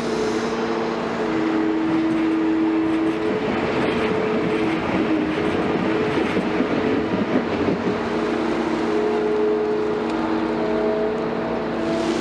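Hydraulic excavator's diesel engine running steadily with a hum of several tones that shift a little, and a rougher, noisier stretch in the middle.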